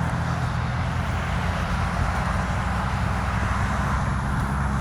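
A steady, unchanging low engine drone with an even rushing noise over it.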